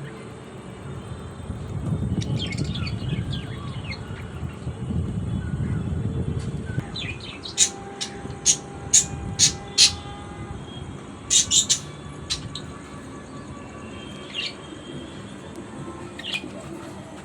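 Birds chirping on and off, with a run of five loud, sharp chirps a little before the middle and a quick cluster just after. A low rumble sits underneath through the first half.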